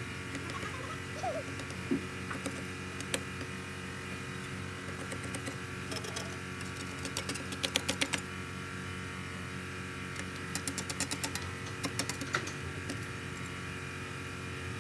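Bursts of rapid clicking, about eight clicks a second, twice, with a few single clicks between, over a steady machine hum: hand-tool work during a repair of a forklift's hydraulic cylinder.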